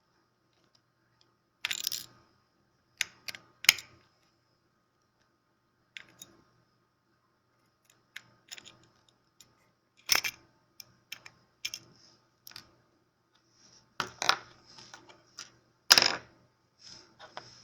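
Irregular sharp clicks, clinks and short scrapes of small hand tools against a small LED spot bulb and its parts as it is taken apart. The loudest come about 2, 10, 14 and 16 seconds in.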